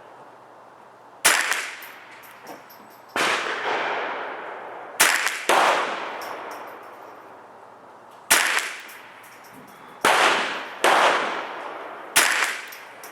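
Sig 522 .22 LR semi-automatic rifle firing Federal 711B standard-velocity rounds: about eight shots at irregular intervals of one to three seconds, each a sharp report followed by a long echoing tail.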